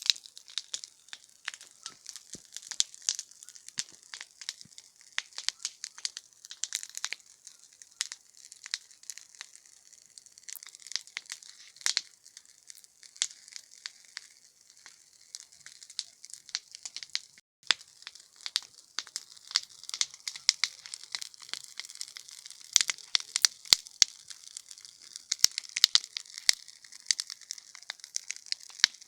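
Campfire crackling: burning wood snapping and popping in quick, irregular sharp cracks over a steady hiss, busier and louder toward the end.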